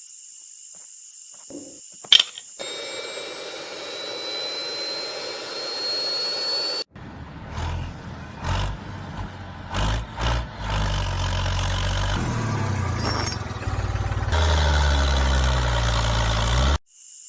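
A motor running in several cut-together clips: first a rising whine as it speeds up, then a low, pulsing run that changes pitch from clip to clip.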